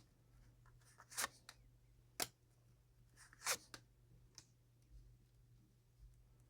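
Near silence broken by a few faint, short rustles and clicks of tarot cards being handled, spaced about a second apart.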